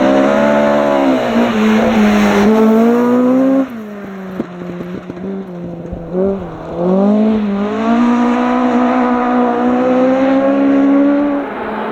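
Rally car engine at high revs, its pitch climbing, then cutting back sharply about three and a half seconds in, with a few sharp clicks while off the throttle. It then picks up and revs high again, holding until it drops away near the end.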